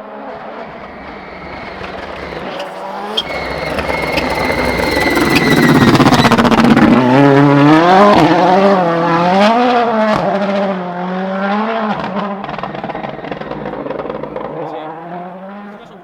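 A 2017 World Rally Car's 1.6-litre turbocharged four-cylinder engine approaches at speed and passes loudest about six to eight seconds in. The revs then rise and fall several times as the car pulls away and fades. A thin steady high whistle is heard around three to five seconds in.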